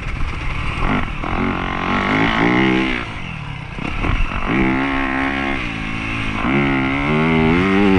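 Dirt bike engine being ridden under throttle, its pitch climbing in repeated pulls. It drops off the throttle about three seconds in, then revs up twice more.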